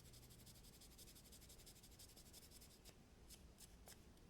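Near silence: faint room tone with a few faint, light ticks about three seconds in.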